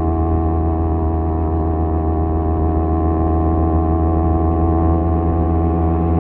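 Kawasaki Z250 parallel-twin engine through an aftermarket SeaPro muffler, running at a steady engine speed while cruising. The exhaust drone holds one deep, even pitch throughout.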